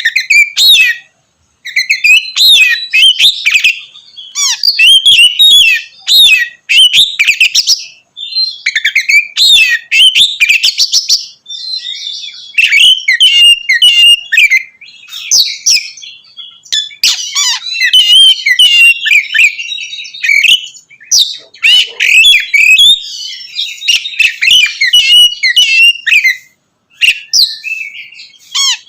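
Oriental magpie-robin (kacer) singing loudly in full song, quick varied phrases of whistles and chatter delivered in bursts with short pauses between them.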